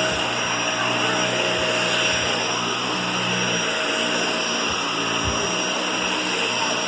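Vacuum cleaner running steadily on carpet; its low hum drops away a little past halfway while the whine carries on.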